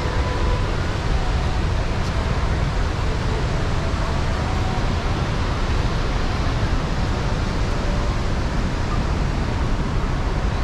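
Chitrakote Falls on the Indravati River in monsoon flood: a loud, steady rush of a great volume of falling water, deepest in the low range.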